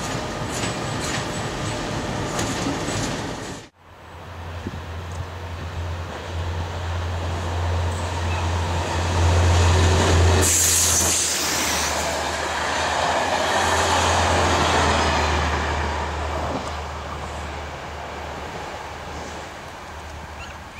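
Trains passing on a railway line, wheels running over the rails. After an abrupt cut about four seconds in, a diesel locomotive passes with its engine giving a steady low drone. About ten seconds in there is a brief high-pitched noise, and the passing sound fades toward the end.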